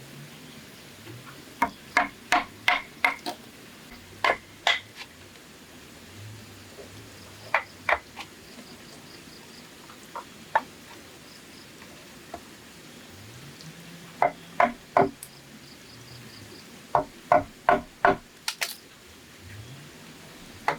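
Sharp strikes on bamboo from a hand tool, coming in quick runs of two to five blows with pauses between.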